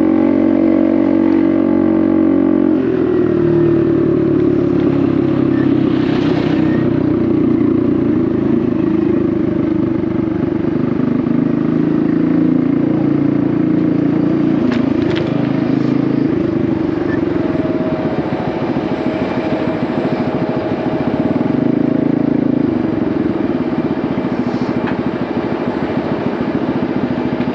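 Honda Navi's small single-cylinder engine running through an aftermarket Vance & Hines exhaust while riding. The engine note changes about three seconds in and then runs steadily.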